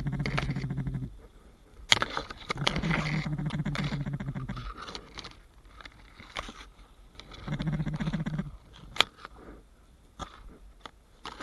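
Duck-like quacking in three drawn-out runs of rapid pulses, with a couple of sharp clicks between them.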